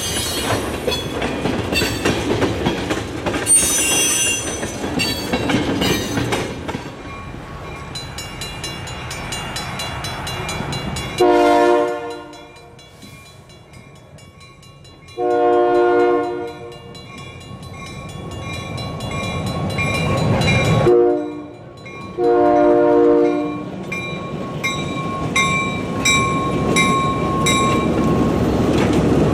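Tank cars rolling past with wheel clatter, then a grade-crossing bell ringing while a switcher locomotive sounds its horn in a long, long, short, long crossing pattern. The locomotive's diesel engine grows louder near the end as it reaches the crossing.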